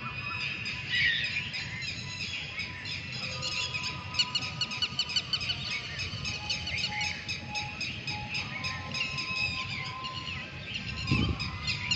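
Several small birds chirping and twittering in a dense chorus of quick, high notes, with a few longer whistled notes underneath. A brief low thump comes about eleven seconds in.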